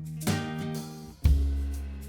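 Background music: acoustic guitar chords strummed about once a second, each ringing out.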